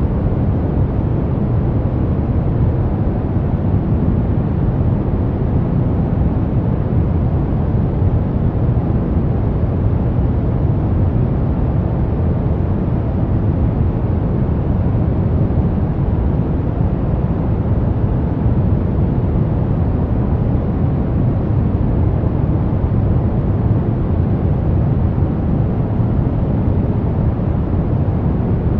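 Brown noise: a steady, deep rushing hiss, strongest in the bass and thinning toward the highs, with no rhythm or change.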